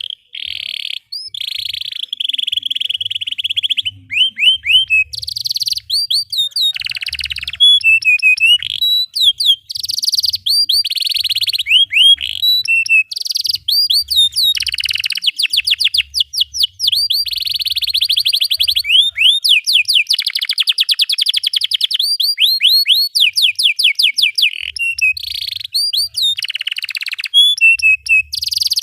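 Domestic canary singing a long, continuous song: fast rolling trills, rapid runs of repeated chirps and series of sweeping whistled notes, with only brief pauses.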